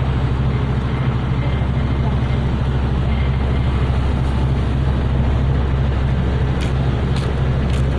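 Engine running steadily at idle, with a few faint ticks near the end.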